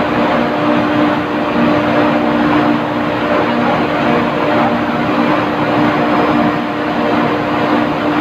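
Steady industrial machinery noise: a loud, even rush with a constant hum and a few steady higher tones, unchanging throughout.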